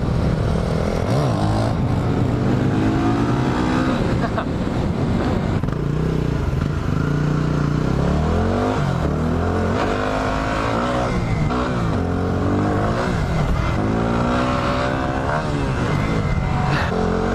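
Yamaha WR250R's single-cylinder engine running under way, its note rising and falling repeatedly as the motorcycle accelerates and eases off, over steady wind noise.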